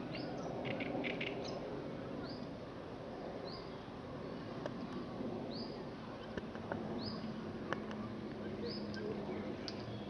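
A small bird repeating a short, high, down-turning chirp about once a second over a steady outdoor hiss, with a few faint clicks.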